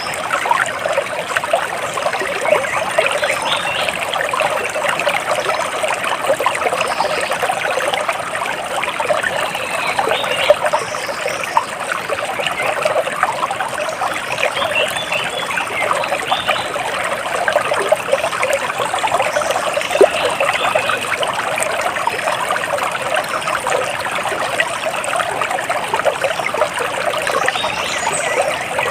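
Stream water splashing and trickling steadily, with a few faint bird chirps now and then.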